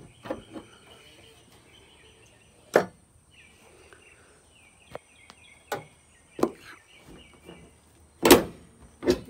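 A scatter of sharp knocks and thumps from handling around the pickup, about seven of them. The heaviest is a thump about eight seconds in. Faint bird chirps are heard in the first half.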